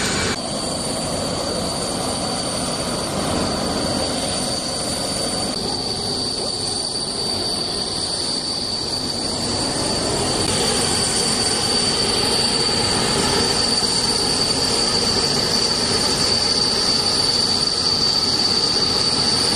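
Antonov cargo plane's jet engines running with a steady rushing noise and a high whine, getting louder about halfway through.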